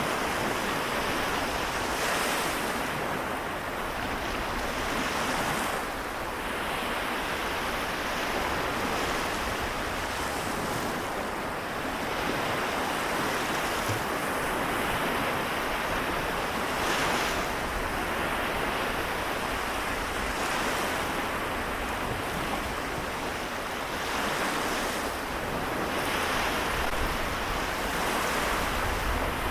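Small waves of the Seto Inland Sea washing onto the shore in a steady wash, swelling and easing every few seconds, with some wind noise on the microphone.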